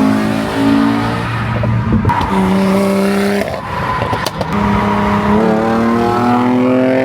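Car engine accelerating, its pitch climbing, dropping back and climbing again, with a short break near the middle.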